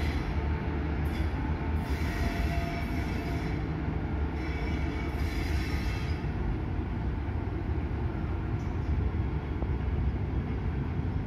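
Electric locomotive-hauled passenger train rolling slowly past: a steady low rumble of wheels on rail, with spells of high-pitched hiss in the first half.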